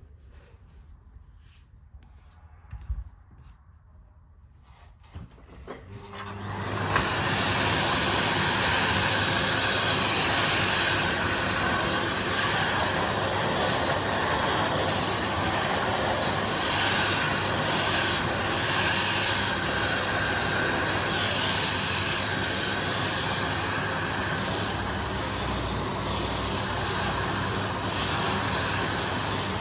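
Vacuum cleaner switched on about six seconds in, then running steadily. A few light knocks and clicks come before it starts.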